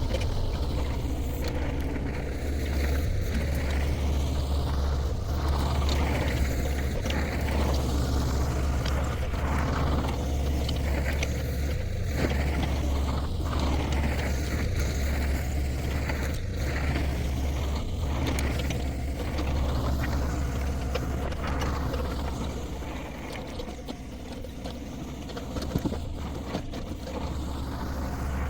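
Shantui STE35SR mini excavator's diesel engine running steadily under working load, with scattered knocks and cracks as it pulls the barn apart. The engine eases off slightly a few seconds before the end, then picks up again.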